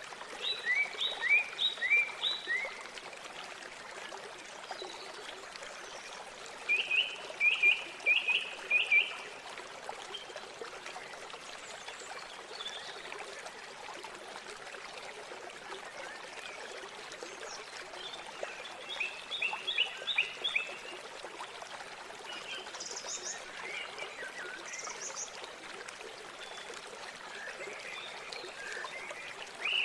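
Steady rush of river water, with several short runs of rapid, repeated animal calls, about four to six notes a second. Two brief high chirps come in the latter half.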